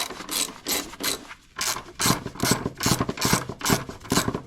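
Socket ratchet wrench clicking as it turns a half-inch fastener holding the air box, in repeated back-and-forth strokes: a few spaced strokes, then quicker ones from about two seconds in.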